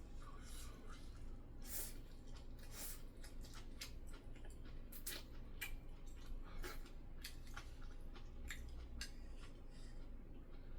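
A person eating a meal: irregular sharp clicks and taps of utensils and dishes mixed with chewing, over a low steady hum.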